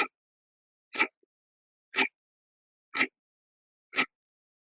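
Sharp ticks, one exactly every second, five in all, like a clock ticking, against dead silence.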